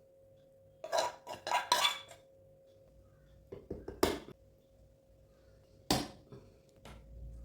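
Dishes and cutlery clinking and clattering in a few short clusters of knocks, with a single sharp clink about six seconds in.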